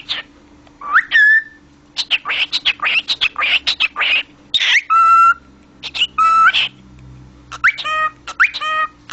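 Cockatiel chattering and whistling: a rising whistle about a second in, a fast string of chirps, then short calls repeated near the end.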